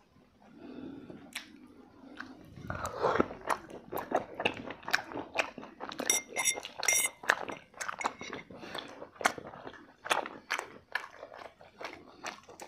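Close-up chewing and crunching of chicken drumsticks, with irregular bites and mouth clicks that begin about two and a half seconds in.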